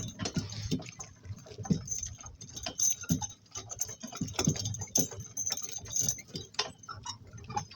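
Harness hardware jingling and clinking with irregular clicks and knocks from a work cart pulled by two donkeys at a walk.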